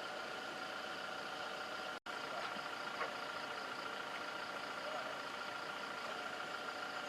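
A steady mechanical hum like an idling engine, over even background noise. The sound drops out for an instant about two seconds in.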